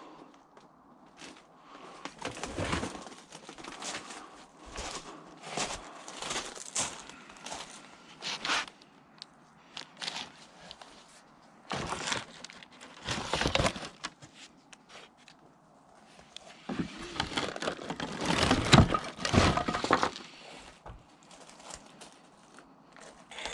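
Rummaging through rubbish by hand: irregular rustling, crinkling and knocking of bags and loose scrap, busiest and loudest about two-thirds of the way through.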